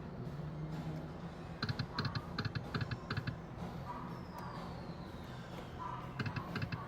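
Thunder Cash poker machine sound effects: two quick runs of electronic clicking as the reels spin and stop, with a falling tone between them, over a steady low hum.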